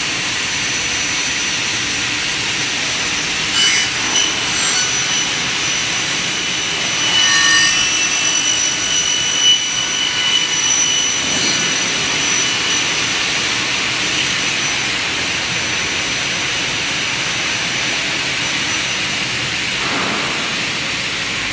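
Aluminum double-head mitre saw running, its saw blades spinning with a loud, steady whine. From a few seconds in until near the end, high ringing tones sound over it as the blades cut through aluminum profile.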